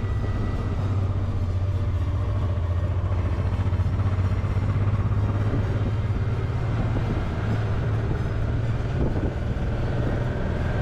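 Honda Deauville 700's V-twin engine running at a steady cruise, its low drone mixed with wind and road noise as the motorcycle is ridden.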